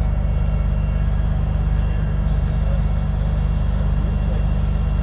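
A heavy truck engine running steadily with a constant low drone.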